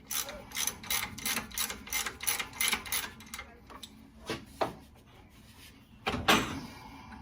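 Ratchet wrench clicking in quick strokes, about three a second, as a bolt is worked. Then a couple of single knocks and a louder metal clank just after six seconds in.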